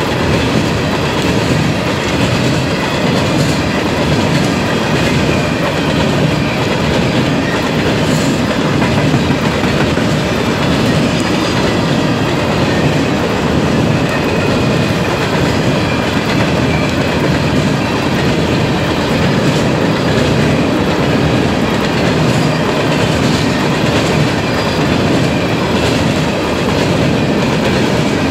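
Coal train's steel-wheeled coal cars rolling past close by: a loud, steady rolling noise of wheels on rail that carries on without a break.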